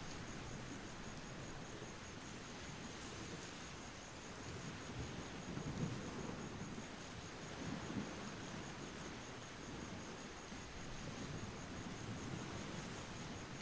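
Faint steady background noise, with a high tone pulsing evenly over it and a few soft low swells.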